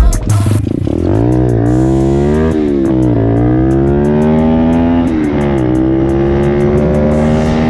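A 125cc pit bike's single-cylinder four-stroke engine running under throttle, its pitch climbing and dropping back a few times, then holding and slowly rising.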